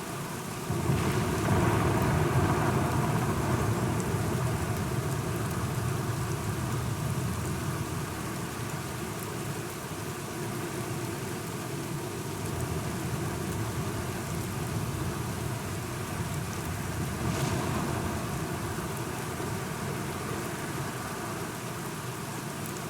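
Steady rain falling, with a roll of thunder that breaks in suddenly about a second in and rumbles away slowly over several seconds; a weaker swell of rumble comes again near the end.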